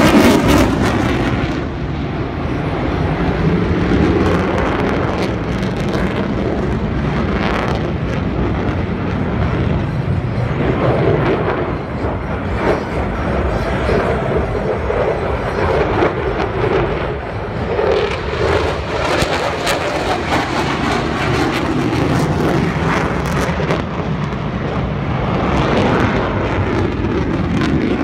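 Republic of Singapore Air Force F-15SG fighter's twin Pratt & Whitney F100 turbofan engines at high thrust through a high-G turn. The jet noise is loud and rough with a crackling edge, and swells and eases as the jet flies past.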